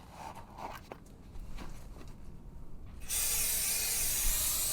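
An aerosol can of brake cleaner starts spraying about three seconds in, a loud steady hiss, as a brake rotor is cleaned before it goes back on. Before that there are a few faint handling clicks.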